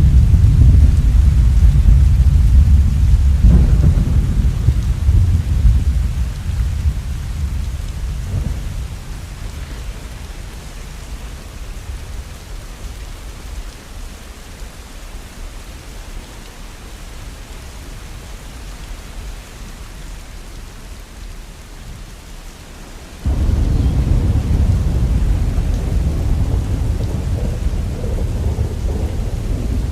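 Steady rain with rolling thunder: a deep rumble fades away over the first ten seconds or so, and a new low rumble of thunder sets in abruptly about seven seconds before the end.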